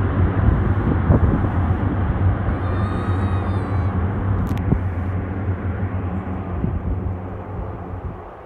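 Lockheed C-130 Hercules four-engine turboprop rumbling with a low drone, fading steadily as the aircraft moves away after landing.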